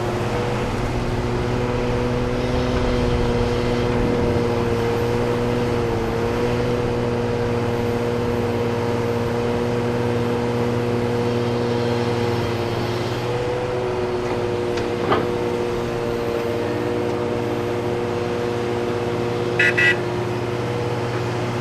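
Heavy diesel earthmoving equipment running at a steady drone, with a single knock partway through. Two short horn toots sound near the end.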